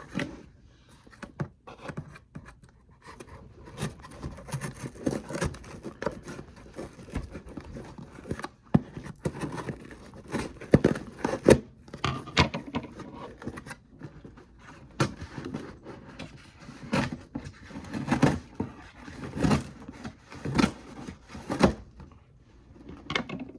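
A package being opened by hand: irregular scraping, rustling and tearing of the packaging, with many sharp clicks and knocks as it is handled.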